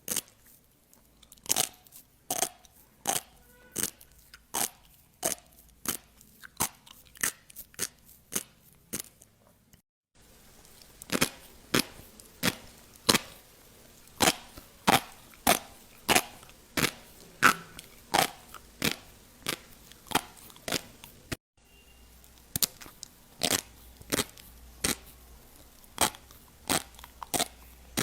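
Close-miked fish roe popping one egg at a time: crisp, sharp pops, about one to two a second. The background cuts off abruptly twice, once about a third of the way in and again about two-thirds in.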